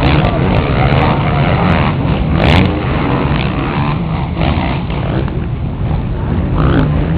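Motocross bikes' engines running and revving on the track, their pitch rising and falling, with a brief louder burst about two and a half seconds in.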